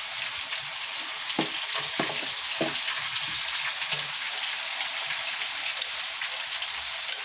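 Chicken pieces frying in oil: a steady sizzle, with a few short pops.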